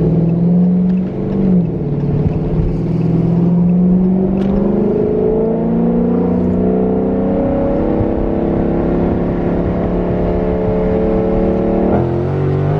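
Muffler-deleted 6.4-litre (392) HEMI V8 of a Dodge Charger Scat Pack pulling under load. The engine note dips briefly about a second in, then climbs steadily in pitch for about ten seconds and drops suddenly near the end.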